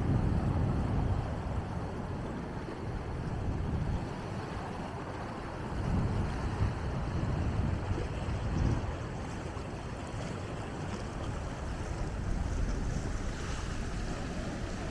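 Big ocean waves surging and breaking, with wind rumbling on the microphone; the surf swells louder about six and eight and a half seconds in.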